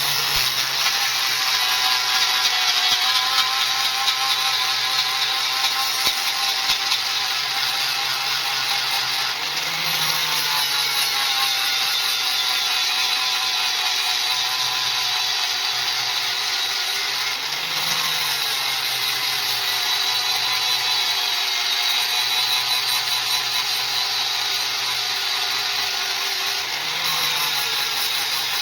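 Electric grinder running steadily under load against a steel knife blank, a continuous high whine with grinding noise. Its pitch sags briefly three times as the pressure on the work changes.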